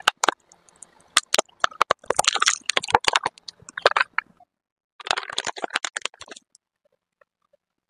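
Plastic soap boxes cracking and snapping under a car tyre as it rolls over them: a rapid, uneven run of sharp cracks and crunches that stops about six and a half seconds in.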